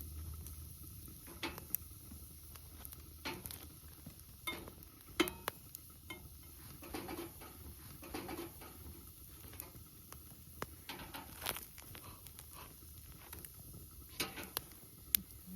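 Irregular crackles and light clicks from a wood campfire and cookware being handled, over a faint steady hiss.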